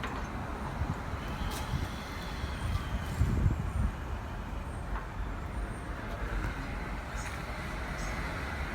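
Low, steady vehicle rumble that swells briefly about three seconds in.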